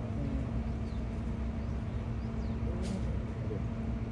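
Steady low engine rumble with a constant hum, with one short click about three seconds in.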